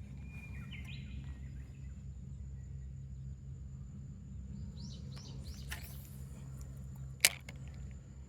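Outdoor ambience with a steady low rumble and small birds calling: a short chirp about a second in, then a quick series of arched chirps around five seconds in. A single sharp click sounds about seven seconds in and is the loudest sound.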